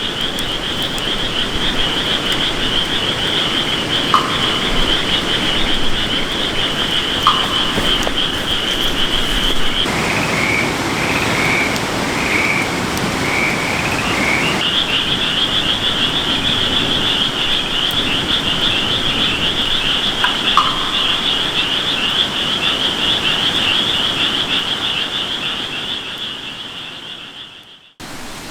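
A night chorus of calling frogs: a dense, high, rapidly pulsing trill. For a few seconds in the middle it gives way to a lower call in short repeated bursts, then comes back and fades out near the end, with a few faint ticks along the way.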